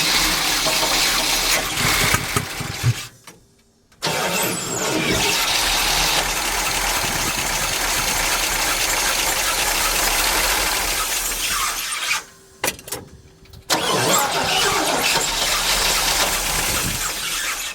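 Big-block V8 of a 1969 Chevrolet C50 truck starting and running on gas poured down the carburettor after decades parked. It runs in stretches of several seconds and drops away twice, about three and twelve seconds in, before picking up again.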